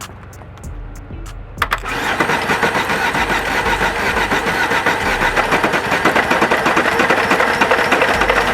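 Audi 80 engine turning over on the starter: a sharp click, then several seconds of steady, pulsing cranking.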